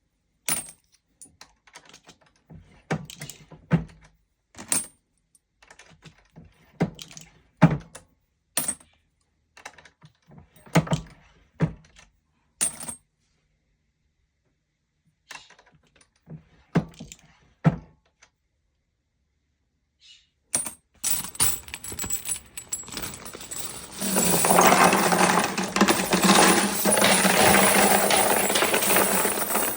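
Brass rifle cartridge cases clinking and clicking against each other and on a hard surface as they are handled, in separate sharp strikes. About two thirds of the way in, a dense continuous rattle starts. It turns much louder for the last six seconds and stops abruptly at the end.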